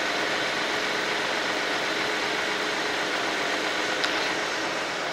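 Hyundai Genesis BH330's 3.3-litre GDI V6 idling steadily in the engine bay before it has warmed up. It runs quietly and evenly, a sign of an engine in good condition.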